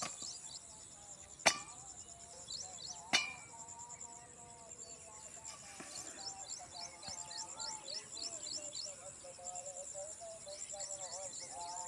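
Outdoor countryside sound: a steady high-pitched insect trill with runs of quick falling bird chirps, and two sharp clicks about a second and a half apart early on.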